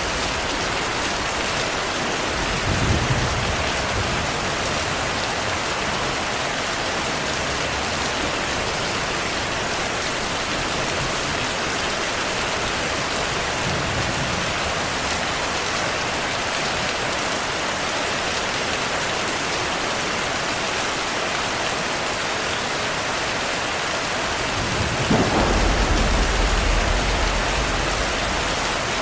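Steady heavy rainfall, with thunder rumbling: a short rumble about three seconds in and a longer, louder roll near the end.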